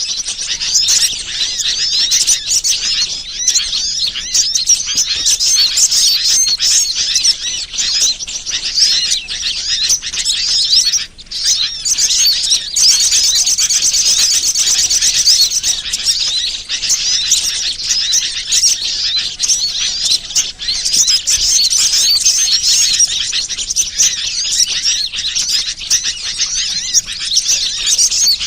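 Bird-lure (pikat) recording: a dense, loud chorus of many small birds chirping and twittering without a break, apart from a brief drop about eleven seconds in. A fast, even trill stands out for a few seconds shortly after.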